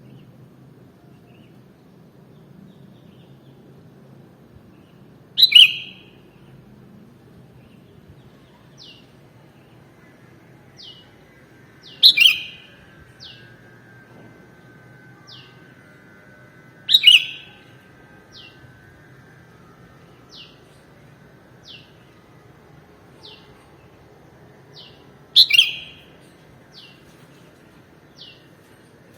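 Sooty-headed bulbul (kutilang) calling: four loud, short, sharp calls several seconds apart. Between them come faint, short, high chirps about once a second over a low steady background hum.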